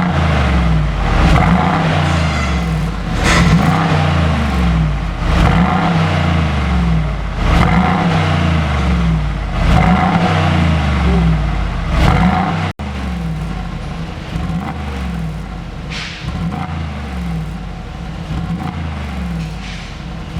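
Mercedes-AMG G63 (W463B) twin-turbo V8 breathing through an aftermarket Brillante valved exhaust, revved up and let fall again about every two seconds. After a sudden cut a little past the middle, it runs quieter with smaller revs.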